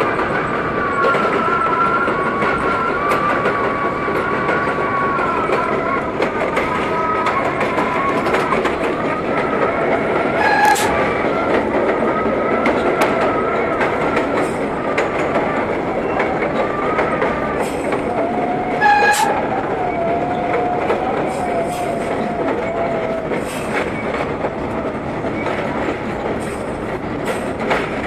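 R32 subway train running, heard from inside the front car: a steady rolling rumble with a wavering high whine, and a couple of sharp clacks, about a third of the way in and again about two-thirds in.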